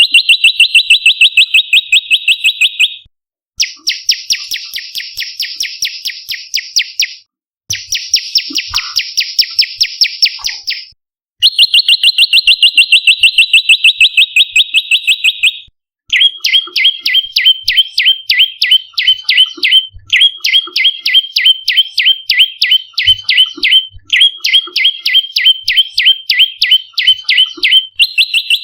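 Prenjak lumut calling in fast, sharp chirping trills of about ten notes a second, in loud bouts of a few seconds with short pauses between them, then one longer unbroken run near the end.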